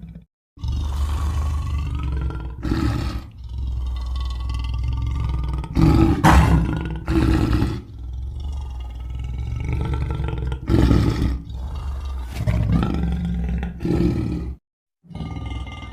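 Monster growl and roar sound effects: a continuous low growl broken by several louder roars, with two brief dead-silent cuts between clips.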